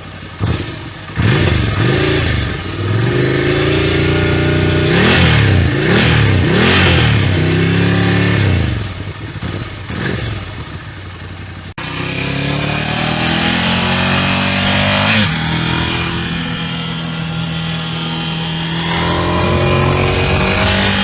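Ducati Scrambler Nightshift's air-cooled 803 cc L-twin revved through its exhaust in repeated throttle blips from idle, then settling to idle. About halfway through, a cut leads to a second recording of the bike that revs up, drops back to idle, and rises again near the end, in a comparison of the stock exhaust with an unbaffled Termignoni Sport-Line race exhaust.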